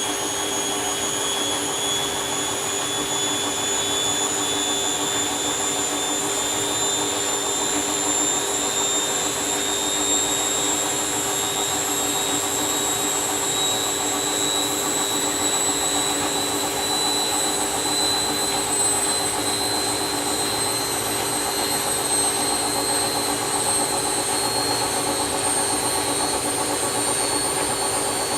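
Candy washing machine spinning, its motor whine climbing slowly and steadily in pitch as the drum speeds up.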